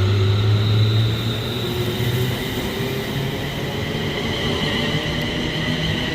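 Train moving through the station, with a strong low drone that fades about two seconds in and several high whining tones that slowly drop in pitch.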